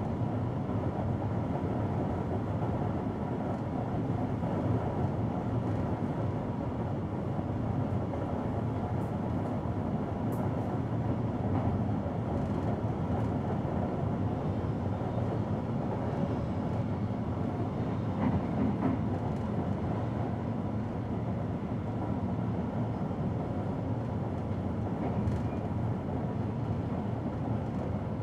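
Electric passenger train running at speed, heard from inside the driver's cab: a steady running noise of wheels on rail and running gear.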